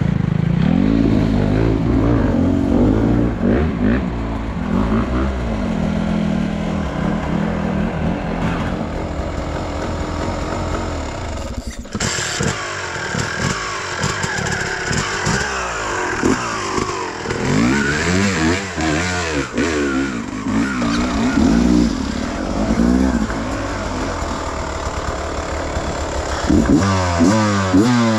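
Enduro dirt bike engine revving up and down over and over, the revs rising and falling every second or two, with a brief break about twelve seconds in and quick rising revs near the end.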